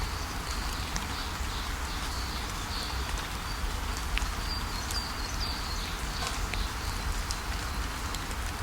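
Steady rainfall with scattered drops ticking, and small birds chirping in short high notes throughout, over a constant low rumble.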